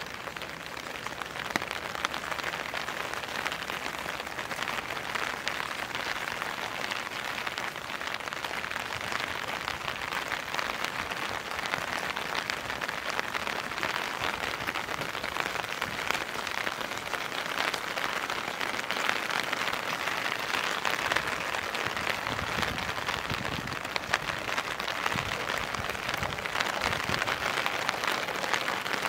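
Steady rain falling, with scattered single drops ticking sharply close by.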